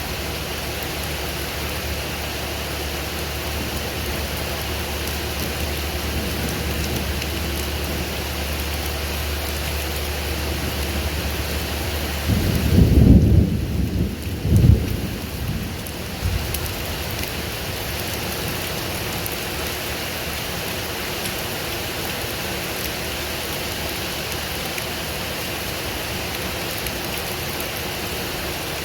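Steady rain falling through a thunderstorm. About halfway through, a roll of thunder rumbles low and loud for about three seconds, peaking twice, then fades back under the rain.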